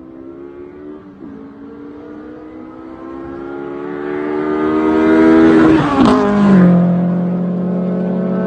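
Car engine accelerating hard, its pitch and loudness climbing steadily for several seconds, then breaking off sharply about six seconds in and settling to a steadier, lower note.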